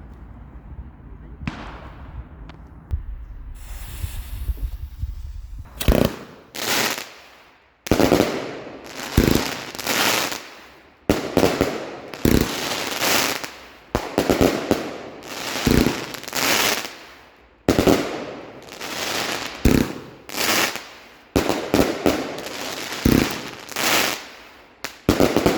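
Pyrocentury Red Chrys, a 36-shot firework cake, firing. After a few seconds of low rumble and a hiss, the shots start about six seconds in and follow one after another, each a sharp bang that trails off.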